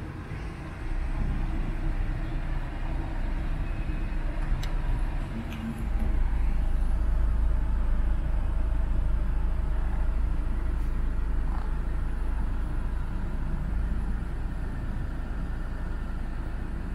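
A 2017 Ford Fusion's 1.5L EcoBoost turbocharged four-cylinder idling in Park, heard from inside the cabin as a steady low rumble. The rumble gets louder about six seconds in, and there are a few light clicks.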